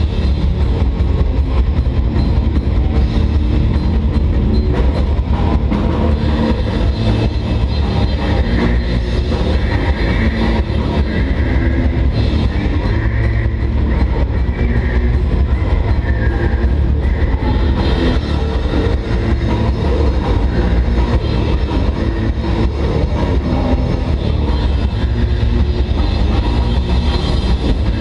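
Heavy metal band playing live, loud and unbroken: drum kit and electric guitars with a heavy low end.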